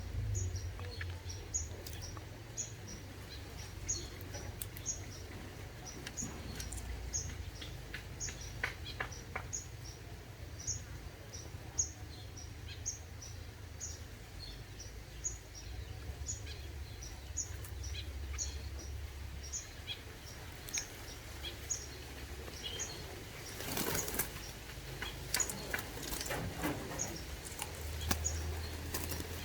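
Freshly bathed green pigeons shaking and flapping their wings, with a few louder bursts of flapping near the end. Short high chirps repeat about twice a second throughout.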